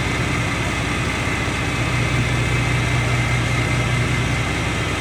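Forage harvester's engine running steadily with a low hum and a faint steady high tone above it.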